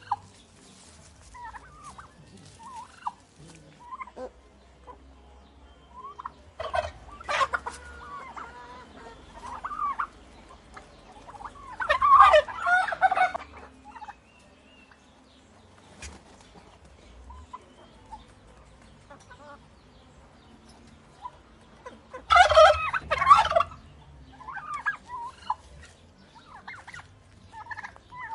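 Turkeys gobbling: two loud rattling gobbles about halfway through and again near the end, with shorter calls and clucks scattered between.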